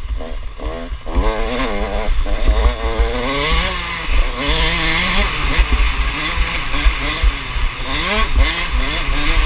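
Motocross bike engines racing, their pitch climbing and dropping again and again as they rev up and change gear, with a second bike's engine overlapping at times.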